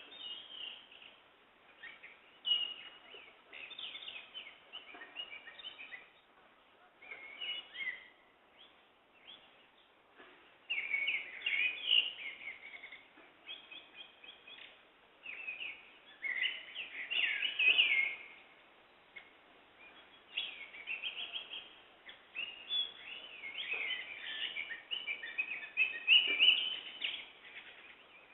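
Several songbirds singing and chirping in short, overlapping phrases that come in clusters with brief gaps between them. The singing is busiest in the middle and near the end.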